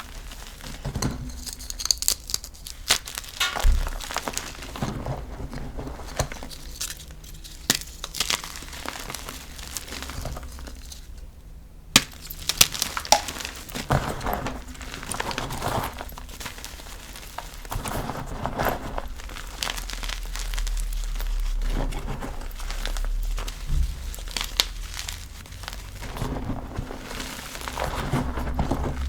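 Gym chalk being crushed and crumbled close up: a steady run of crisp cracks, crunches and crumbling, with a few louder sharp snaps as pieces break, the loudest near the middle.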